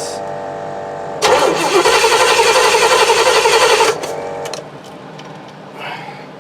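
Starter cranking an Oldsmobile 455 V8 in a compression test, with the number 6 spark plug out and a gauge in its hole. A steady whine comes first; about a second in, loud, pulsing cranking starts and runs for nearly three seconds, then the starter spins down with a falling pitch. The cylinder reads about 120 PSI.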